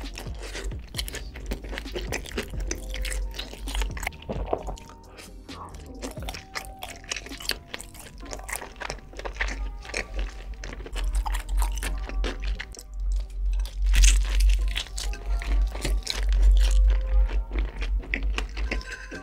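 Close-miked chewing and crunching of fried chicken, many small sharp crunches, over background music with a heavy bass that grows louder in the second half.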